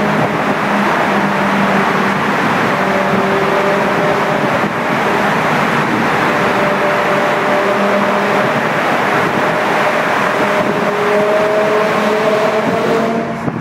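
BMW M6 with an Eisenmann race exhaust, its engine running loud and hard under load, the note holding steady and drifting slowly up and down. The sound eases off just before the end.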